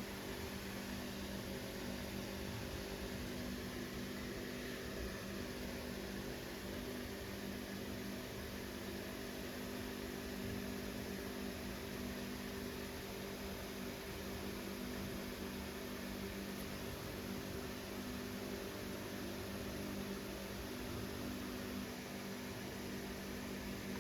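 Steady low electrical-sounding hum with a few held tones over a faint even hiss: room tone, with no barks or bangs.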